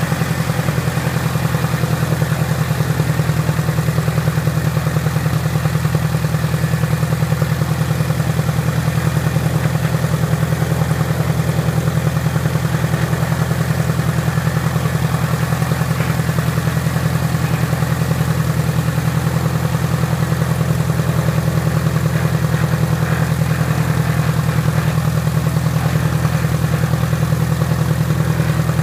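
Piper Apache's piston aircraft engine running steadily at low power with an even, rapid pulse, soon after its first start following a rebuild.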